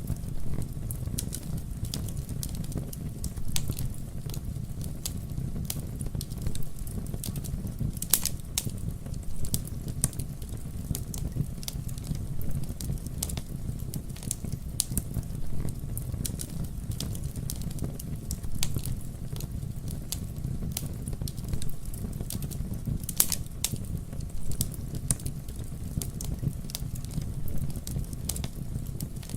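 Campfire burning: a steady low rumble of flames under frequent sharp crackles and pops, with a couple of louder pops about a quarter of the way in and again near three quarters through.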